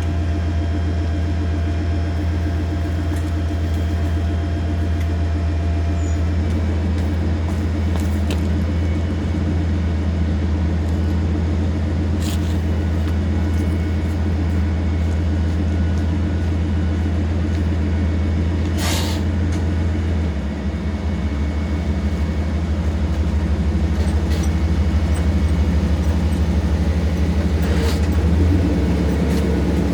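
Pickup truck engine running with a steady low hum, a little louder from about twenty seconds in. A short hiss comes about two-thirds of the way through, and a few faint clicks sound over the hum.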